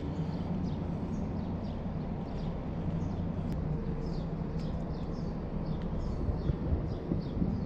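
Small birds chirping, short high chirps repeating a few times a second, over a steady low rumble.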